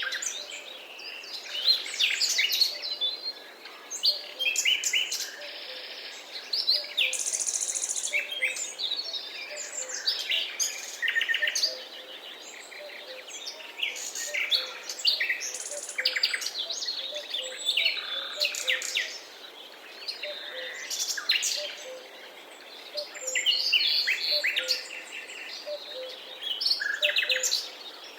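Forest birdsong: several birds chirping and trilling at once, short overlapping calls one after another throughout, over a faint steady background hiss.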